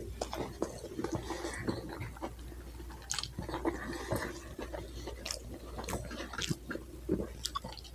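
A person chewing a mouthful of double cheeseburger close to the microphone: soft wet mouth sounds with scattered small clicks.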